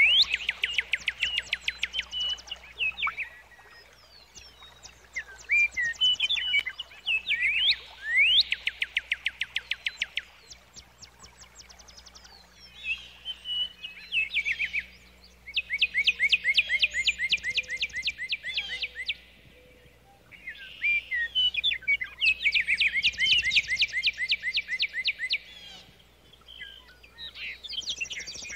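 A songbird singing in phrases a few seconds long, each a fast trill of rapidly repeated short notes mixed with a few quick rising whistles, with short pauses between phrases.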